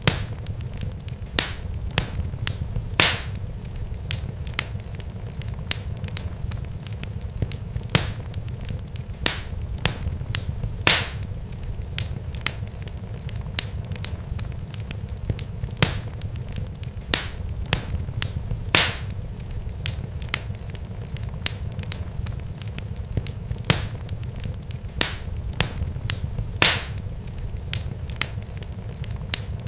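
Irregular sharp crackles and pops, a few of them louder, over a steady low rumble.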